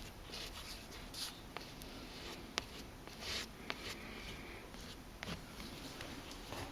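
Sandpaper rubbing by hand over the chair's scuffed leather in short, uneven strokes, with scattered light clicks.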